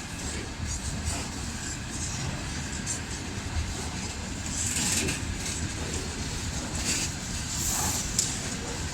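Freight train wagons rolling past: a steady rumble of wheels on rails, with a few brief higher hissing bursts in the second half.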